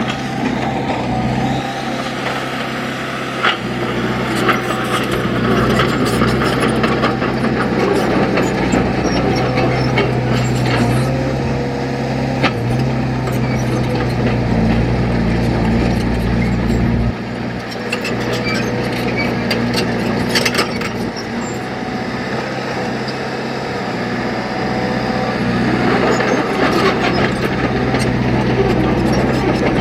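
Heavy diesel earthmoving machine running under load, with frequent clanks and knocks on top. Its engine note changes and briefly drops a little past halfway.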